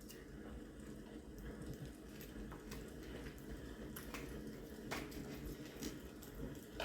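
Quiet room with faint, scattered small clicks and soft handling noises of people eating snacks.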